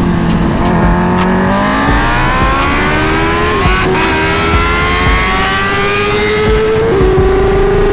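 Superbike engine accelerating hard at full throttle, its pitch climbing steadily and dropping back at each of three quick upshifts, with heavy wind rush over the microphone.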